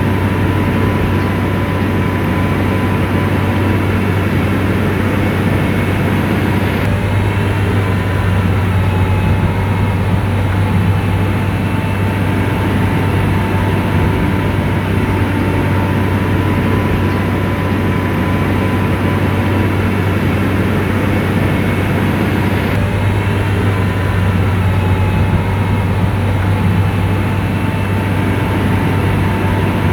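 Heavy diesel engine of an SDLG motor grader running steadily under load: a deep, even drone with a thin steady whine above it.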